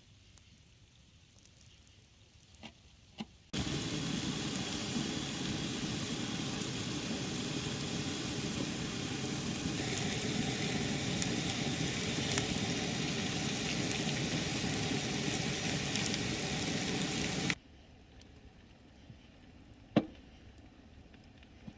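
Campfire burning close up: a loud, steady hiss of flame with scattered crackling pops. It starts abruptly a few seconds in and cuts off abruptly about 14 seconds later, with faint clicks in the quiet on either side.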